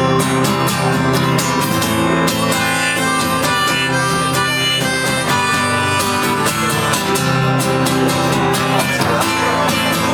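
Instrumental break in a live acoustic song: strummed acoustic guitar with a held melody line over it, no singing.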